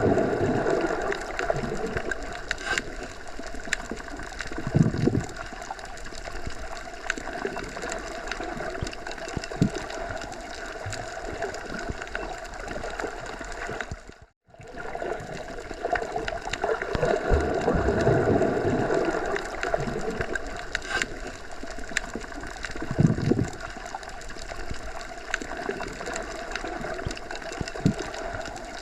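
Steady rushing of wind through forest trees, swelling in low gusts now and then; it cuts out for a moment about halfway through.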